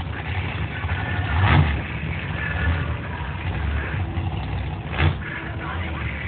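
Monster truck engine running with a low, steady rumble, with two short, loud bursts, one about a second and a half in and another about five seconds in.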